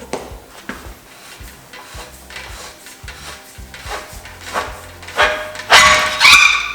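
Metal tools and bike parts knocking and clinking in irregular, separate strikes, with a louder clatter near the end that carries a brief ringing tone.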